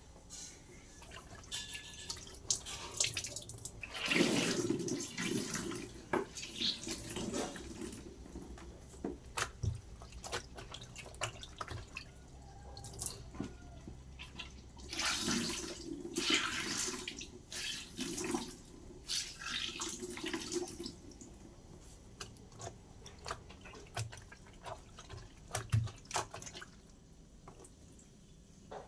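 Water splashing and running in irregular bursts, with scattered knocks and clicks: parts of a twin-tub washing machine being rinsed during cleaning.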